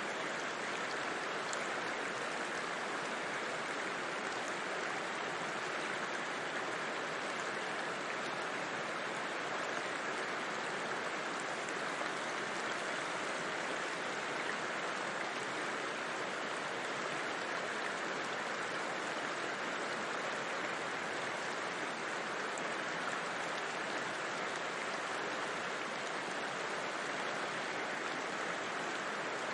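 River water rushing and flowing over rocks: a steady, even rush with no breaks.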